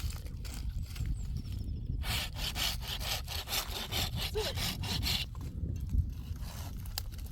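Hand saw cutting through firewood: a burst of quick, even back-and-forth strokes starting about two seconds in and lasting about three seconds, with fainter rubbing strokes before and after.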